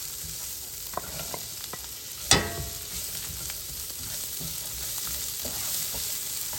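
Hot oil sizzling in a pan as garlic, lemongrass, ginger, kaffir lime leaves and onions stir-fry, with a utensil scraping and clicking against the pan. About two seconds in there is one loud clang that rings briefly.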